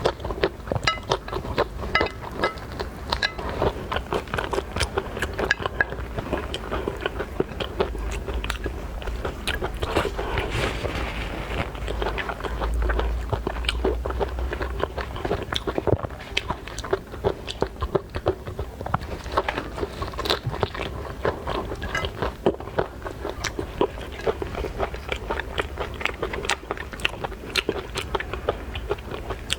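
Person chewing and crunching seafood into a sensitive microphone: a dense, continuous run of crisp crunchy clicks.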